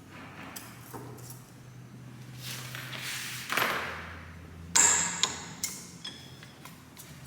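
Metal parts and tools being handled on a workbench over a steady low hum, with a rustle, then one sharp ringing metallic clink about five seconds in and a few lighter clicks.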